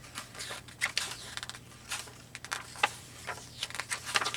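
Pages of a book being turned and handled: scattered paper rustles, swishes and small taps.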